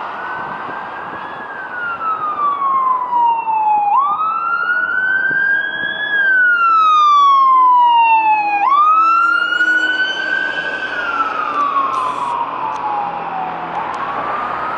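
Fire engine siren on a slow wail, rising and falling in pitch about every five seconds. It grows louder toward the middle and then eases off.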